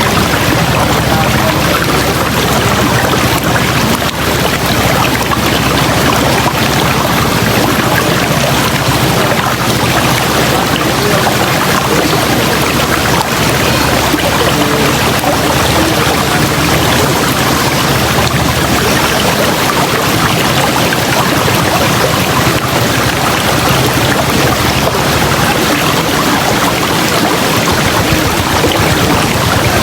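River water rushing steadily over rocks, a continuous loud rush of white water with no pauses.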